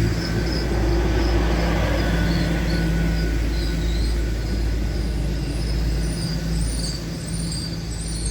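A diesel train running close by with a steady, loud low engine rumble and hum.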